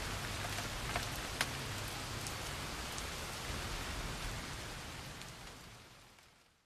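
Rain falling steadily, with a couple of louder drop ticks about a second in, then fading out gradually toward the end.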